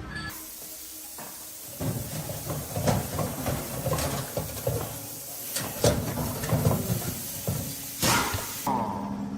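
Irregular knocks and clatter over a steady hiss; near the end a steady low hum starts.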